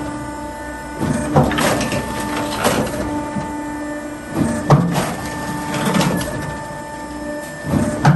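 Electric automatic firewood processor running with a steady motor hum. Every second or two comes a loud crack and crunch as a log round is split into firewood.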